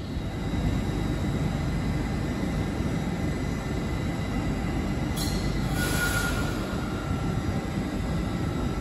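LNER Azuma (Hitachi Class 800/801) train standing at the platform with a steady low rumble. A brief sharp sound comes about five seconds in, then a short hiss, then a thin whine that holds until near the end.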